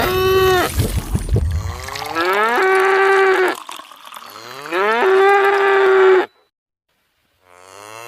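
A pitched, moo-like call repeated four times. Each one rises in pitch and then levels off into a held tone lasting about a second, every repeat the same shape. The sound cuts off abruptly to dead silence once, about six seconds in.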